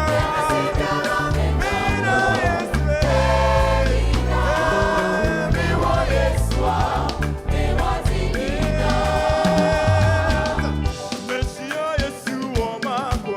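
Gospel choir singing with a band, bass and drums underneath; the bass drops out about eleven seconds in and the voices carry on with lighter accompaniment.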